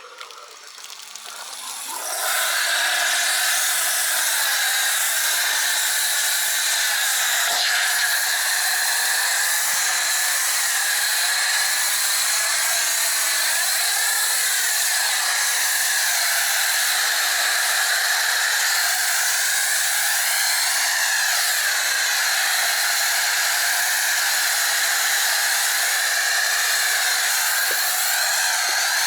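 Pressure washer with a foam cannon spraying pre-wash snow foam. After a click it spins up over about two seconds, then runs as a steady hiss of foam spray with the motor's hum under it.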